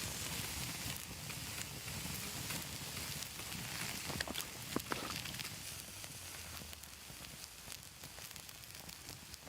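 Cooking over an open wood fire: a steady sizzling hiss with scattered crackles and pops, the sharpest pop just under five seconds in.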